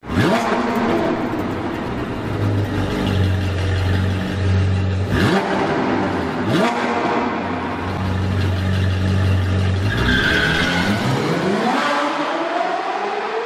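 Sports-car engine sound effects: the engine runs with a steady low hum and revs. Two quick whooshes cut through it midway, and a long rising sweep follows in the last few seconds.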